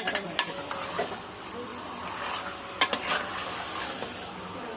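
Chicken pieces sizzling as they fry in hot oil with ginger and garlic, stirred with a spatula that knocks and scrapes against the pot several times.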